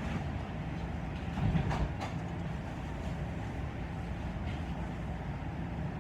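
Passenger train running along the track, heard from inside the car: a steady low rumble that swells briefly about one and a half seconds in.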